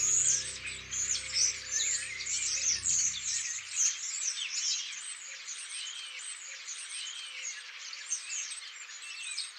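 Many songbirds chirping and twittering together in a dense, busy chorus of quick high calls. A soft music score underneath fades out in the first three or four seconds.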